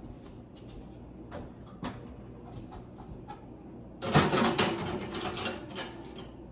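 Kitchen handling sounds: scattered light clicks and knocks, then a short burst of clattering about four seconds in, the loudest moment.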